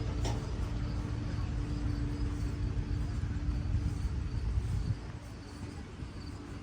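A running engine: a low rumble with a steady hum, which drops away sharply about five seconds in.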